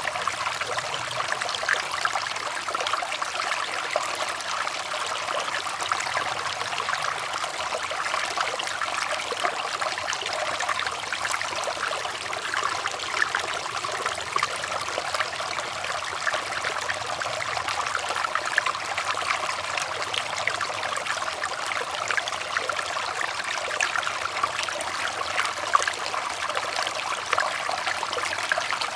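Running water trickling and babbling steadily, a dense fine splashing.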